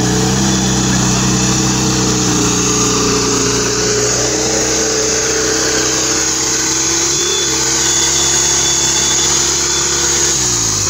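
Lifted VW Beetle off-road car's engine held at high revs with a steady engine note as the car churns and spins its wheels in mud; the revs fall away near the end.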